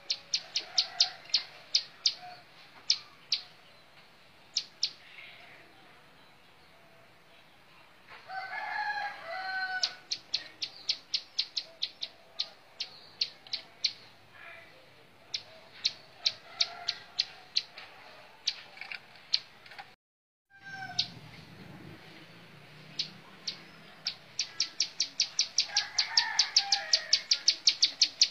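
Plain prinia (ciblek sawah) singing: runs of sharp, high, repeated notes, broken by short pauses and quickening into a very fast run near the end. A lower warbling call sounds behind it twice.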